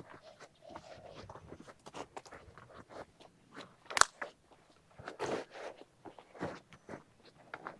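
Footsteps crunching over rough ground: a run of irregular crunches and clicks, with one sharp click about four seconds in.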